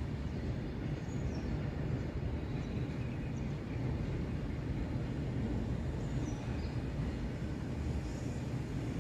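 Indian Railways freight train of open-top wagons rolling past at a steady pace: a continuous low rumble of wheels on the rails.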